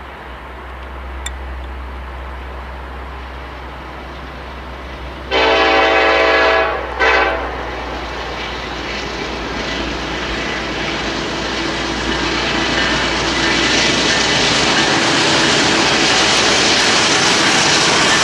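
Freight locomotive's Nathan K5LLA air horn sounding one long blast about five seconds in and a short one just after. The rumble of the approaching train then builds steadily.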